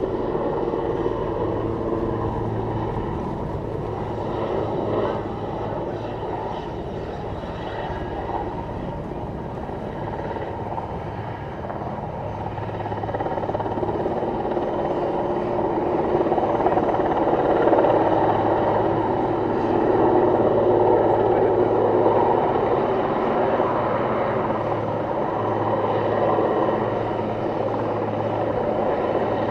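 Airbus H215 Super Puma twin-engine helicopter flying a display pass, its rotor and turbines running steadily; it grows louder a little past halfway through and stays loud.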